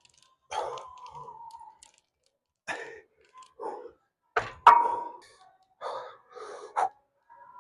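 A series of separate knocks and clanks of metal gym weights, the loudest about four and a half seconds in, some followed by a brief metallic ring.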